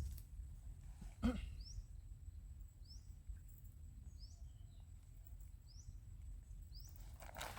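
A bird giving a short, high, upward-sliding chirp over and over, about once a second, faint over a low outdoor rumble. A single knock comes about a second in, and a rustling starts near the end.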